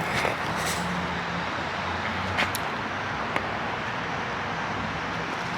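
Steady vehicle and traffic noise with a low, even engine hum, broken by two brief clicks, the first a little over two seconds in and the second about a second later.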